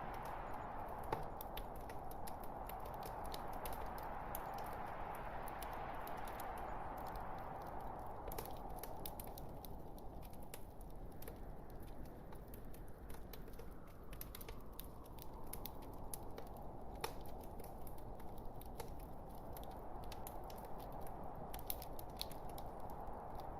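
Log fire crackling: frequent small pops and snaps over a steady soft hiss of burning wood. The hiss thins out for a few seconds midway and then builds again.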